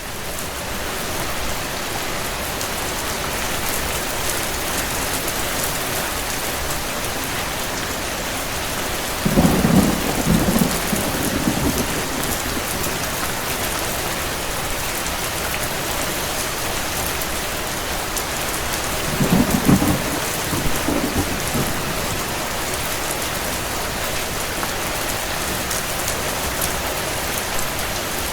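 Steady rain with distant thunder rumbling twice, about ten seconds apart: the first about a third of the way in, the second about two-thirds of the way in.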